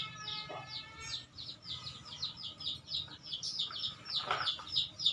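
A small bird chirping over and over, about four to five short, falling chirps a second. Over the first second a chicken gives a drawn-out call, and a shorter call follows about four seconds in.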